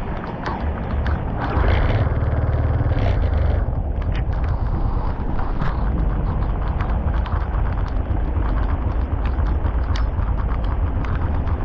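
Floodwater rushing through a blocked street culvert as it drains, a steady heavy noise with deep rumble and scattered small knocks, with wind buffeting the microphone.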